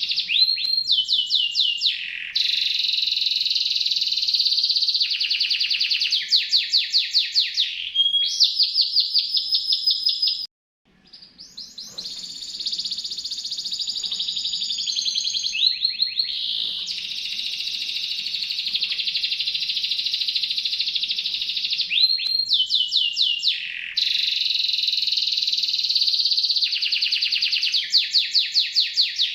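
Domestic canary singing: a continuous, sharp, high-pitched song of rapid trills and rolls of quickly repeated notes. It breaks off briefly about ten seconds in, then carries on.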